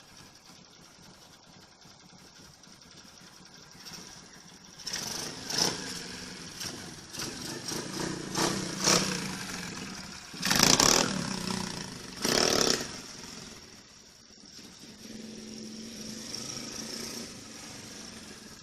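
Small motorbike engine running unevenly, rising and falling in surges through the middle, with two loud noisy bursts about halfway through, then settling to a steadier, quieter note near the end.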